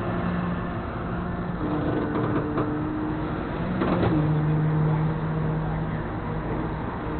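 Flatbed tow truck's engine running steadily, its hum shifting pitch a few times, with a brief knock about four seconds in.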